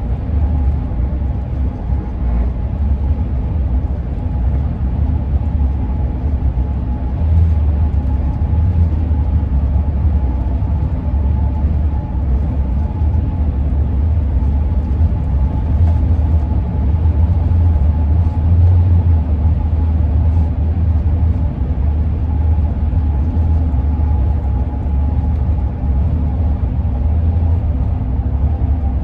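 2001 Ford E-350 van driving, heard from inside the cab: a steady low road and engine rumble, with a faint steady hum above it.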